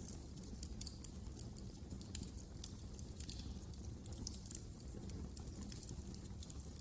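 Wood fire crackling in a fireplace: a steady low rumble of burning with frequent irregular sharp pops and snaps.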